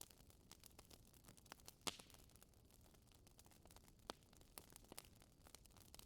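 Wood fire crackling: irregular small pops and snaps over a faint hiss, with a sharper pop about two seconds in and another about four seconds in.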